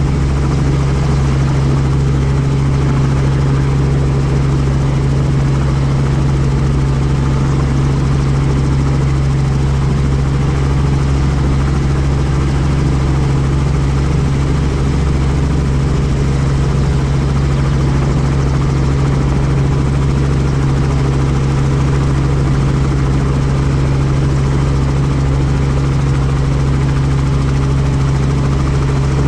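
Helicopter rotor and engine running steadily, a constant low drone with hiss above it.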